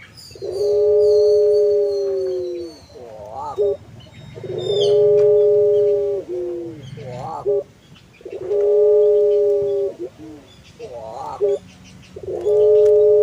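Puter pelung dove cooing in its long, drawn-out song: a short wavering note, then a long held coo, repeated about every four seconds, with four long coos in all.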